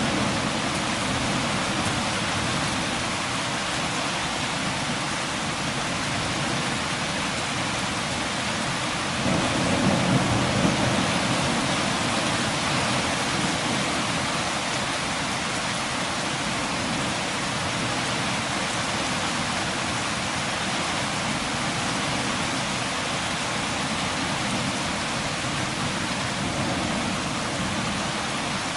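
Steady rain falling in an even hiss. A brief low rumble swells up about ten seconds in and fades again.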